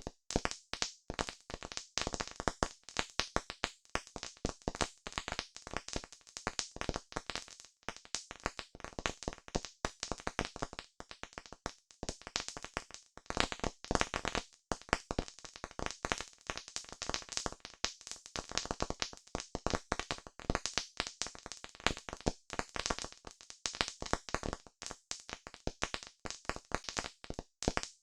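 Campfire crackling: a dense, irregular stream of sharp pops and snaps that keeps going without a break.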